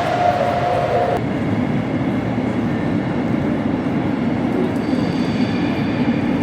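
A train moving in the station, its steady low rumble running throughout. A steady high tone stops suddenly about a second in.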